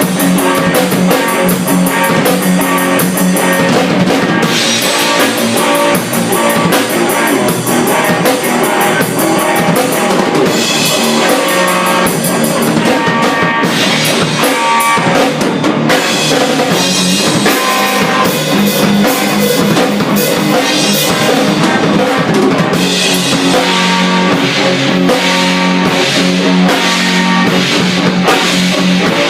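A drum kit and electric guitar playing a loud rock jam, the drums keeping a steady beat under the guitar.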